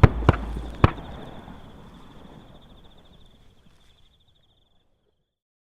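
Three shotgun shots in quick succession within the first second, part of a volley at flying waterfowl. The sound then fades away to silence over the next few seconds.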